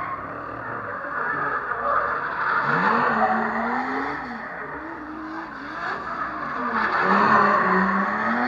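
Drifting car's engine revving up and down while its tyres screech in a sustained slide, swelling loudest twice: about three seconds in and again near the end.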